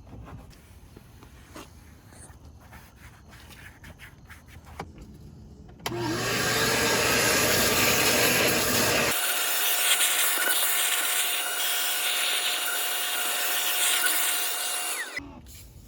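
An electric motor switches on about six seconds in and spins up. It runs steadily with a whine over rushing air, then shuts off near the end.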